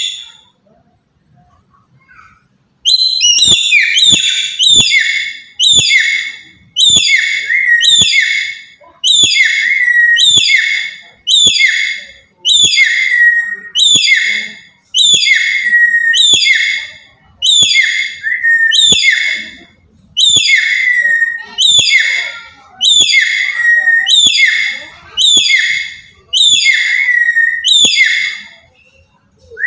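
Black-capped lory giving loud, whistling calls, each one falling in pitch, repeated about once a second after a short pause near the start.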